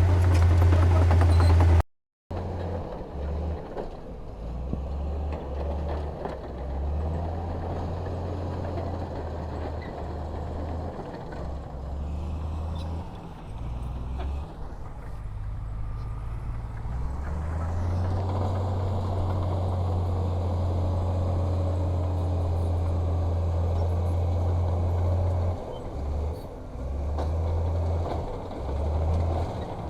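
Heavy diesel earthmoving machinery running: a low engine drone, uneven and broken up for much of the time, steady for several seconds in the latter part. The sound cuts out briefly about two seconds in.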